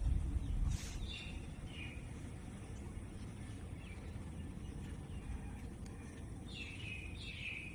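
QT4-15 concrete block making machine running with a steady low rumble, louder for the first second. Birds chirp a few times over it, about a second in and again near the end.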